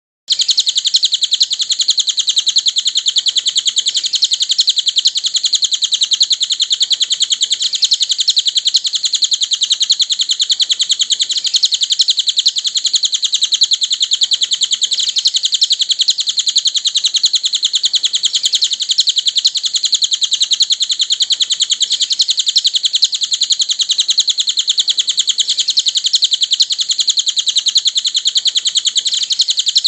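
Cililin bird song as used for a 'masteran' (song-tutoring) recording: a continuous, very rapid high-pitched chattering trill that runs on without a break.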